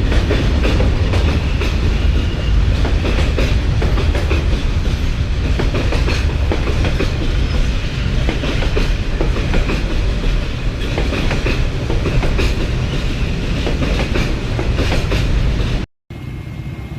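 A train running close by: a steady heavy rumble with the clickety-clack of its wheels over the rail joints. It cuts off suddenly near the end.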